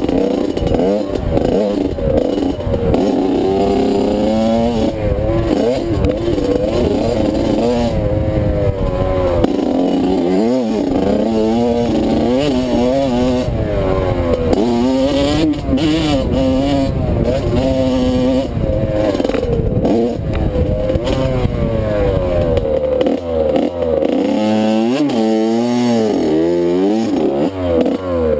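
Motocross bike engine running hard, its pitch climbing and dropping over and over as the throttle opens and closes and the gears change, with wind rushing over the helmet. Toward the end the revs rise and fall in quicker waves and the deep rumble thins out.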